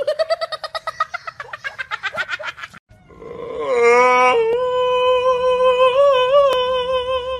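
A voice making a quick run of short pulsed calls, then after a pause one long, level held call.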